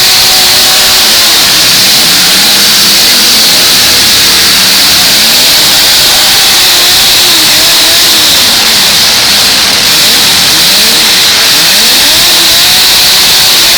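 Several full-size demolition-derby cars' engines revving at once, loud and overlapping, their pitches rising and falling as the drivers rev up and back off.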